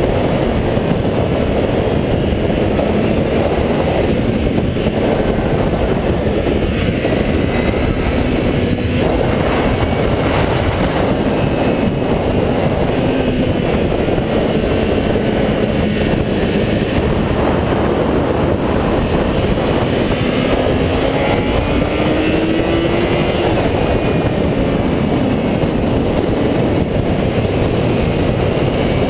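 A 400cc motorcycle ridden at speed: a loud, steady rush of wind noise, with the engine's note faintly underneath, its pitch shifting and rising once past the middle.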